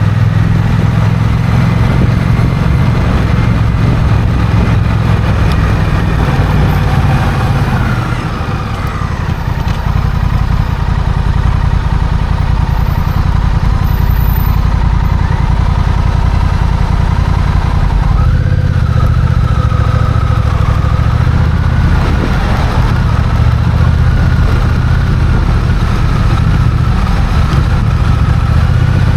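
Honda CMX1100 Rebel's parallel-twin engine running while the bike is ridden. The engine note eases off for a moment around eight seconds in, then pulls again, with its pitch rising at about eighteen seconds and again a few seconds later.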